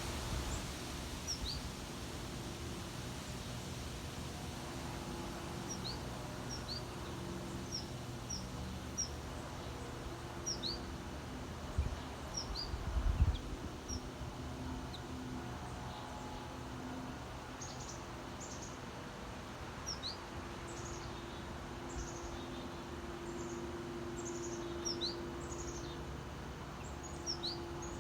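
Small songbirds chirping in short, high notes scattered throughout, over a steady low background hum. Two brief low thumps come about twelve and thirteen seconds in.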